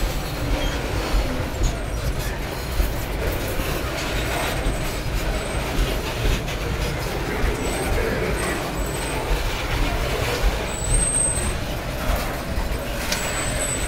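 Freight train of covered hopper cars rolling steadily past, a continuous rumble and clatter of steel wheels on the rails.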